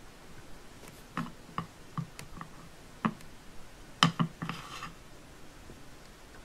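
Light clicks and taps of plastic Play-Doh toy pieces being handled, about a dozen scattered over a few seconds, the loudest about four seconds in, followed by a short scraping rustle.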